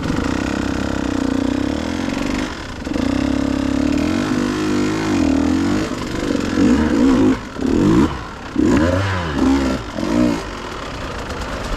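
Dirt bike engine under throttle, its pitch rising and falling as the rider works the throttle, with several quick revs in a row about two-thirds of the way in.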